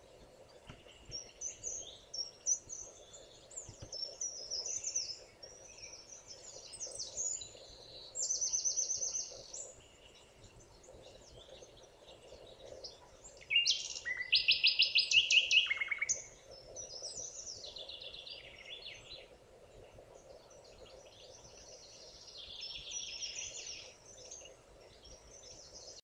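Several songbirds singing and calling in a forest, short chirping phrases throughout, with two louder trills of rapid repeated notes about eight and fourteen seconds in, the second the loudest and lasting a couple of seconds. A faint steady background noise runs underneath.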